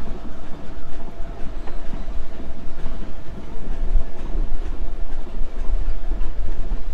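Passenger train running along the track, heard from the side of a car: a steady, loud rumble of wheels on rail with scattered clicks and a faint steady whine.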